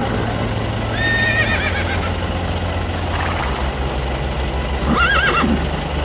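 Horse whinnying twice, about a second in and again about five seconds in, each a short wavering call that falls away, over a steady low hum.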